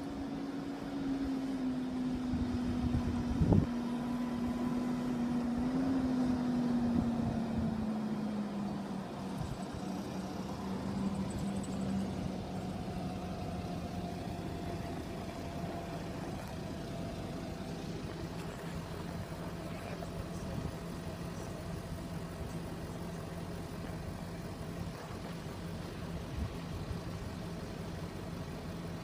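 A road vehicle's engine running steadily, its pitch falling over the first ten seconds and then settling at idle. There is a single sharp knock about three and a half seconds in.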